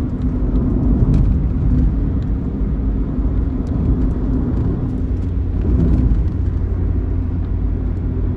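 Intercity bus running on the road: a steady low engine and road rumble.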